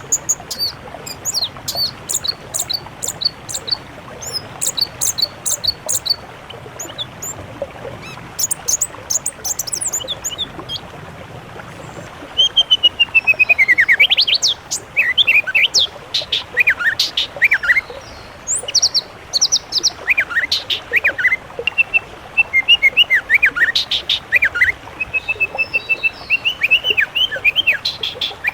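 Songbirds singing over a steady hiss. For the first few seconds there are rapid, high-pitched chips. After a lull, a run of trills and slurred, rising and falling whistles starts about halfway through and carries on to the end.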